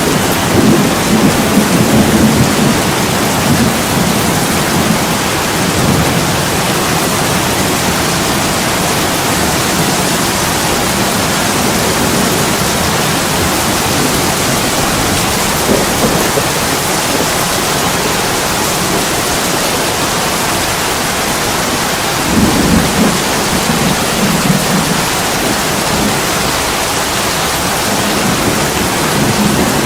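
Heavy rain pouring steadily on a window, a continuous hiss and patter, with deeper low rumbling swells in the first few seconds and again about three-quarters of the way through.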